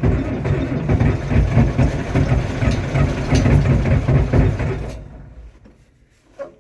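Farmall 1066 tractor engine turning over in a cold start at 16°F, loud and rough, then dying away after about five seconds. A single short knock follows near the end.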